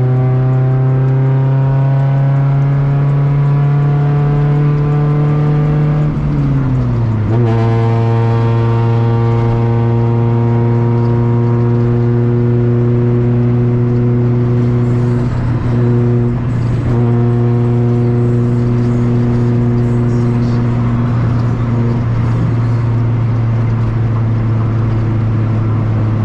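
Honda car's engine and exhaust droning under way, the pitch climbing slowly as it accelerates, then dropping sharply about six seconds in as it shifts up a gear, then holding steady at cruising speed.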